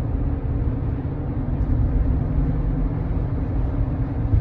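Steady road and engine noise heard from inside a moving car, a constant low rumble with a faint hum.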